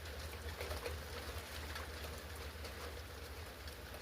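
Steady thunderstorm rain falling, with many small scattered drop ticks over a low rumble.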